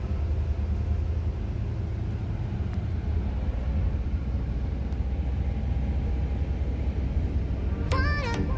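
Steady low rumble of a moving road vehicle, with a light haze of road and wind noise over it. Music comes in near the end.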